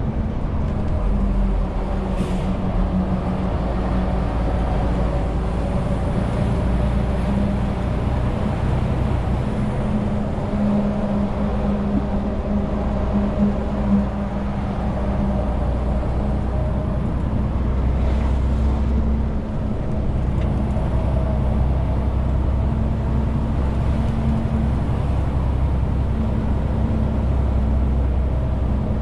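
Renault T520 truck's six-cylinder diesel engine running steadily under a 40-tonne load, with road noise. There is a brief dip in level about two-thirds of the way through.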